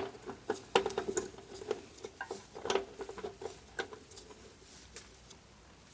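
Light clicks and taps of small hard parts being handled in a welder's wire-feed compartment, irregular and bunched in the first few seconds, then thinning out.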